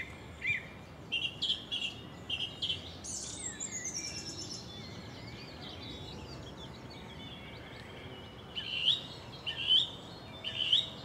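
Small birds singing and calling: a run of short repeated chirps at the start, a high falling trill about three seconds in, and louder chirps near the end, over a faint steady hiss.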